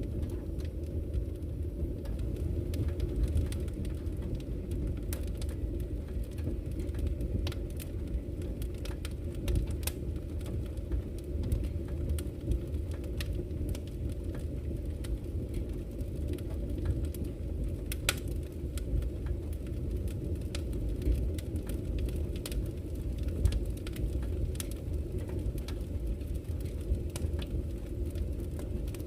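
Campfire crackling with frequent sharp, irregular pops and snaps over a steady low rush of flowing river water.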